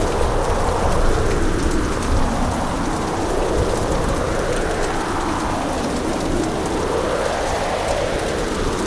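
Hurricane storm ambience: heavy rain in a dense, steady wash over a deep rumble of wind. A band in the middle of the sound swells and eases in slow sweeps every few seconds.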